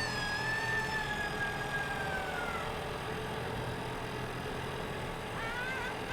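A long high-pitched wail that holds and then slowly falls in pitch and fades, over a steady rushing noise; about five seconds in, another wavering high wail begins.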